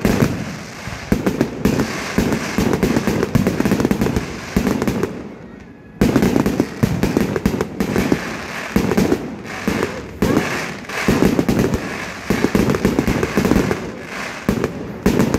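Aerial fireworks display: a dense, continuous run of shell bursts and crackling. It eases off briefly about a third of the way in, then comes back suddenly with a fresh volley.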